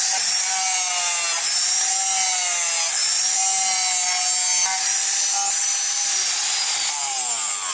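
Hand-held electric power tool running under load, probably working the knife, its motor whine sagging and recovering several times over a hissing scrape.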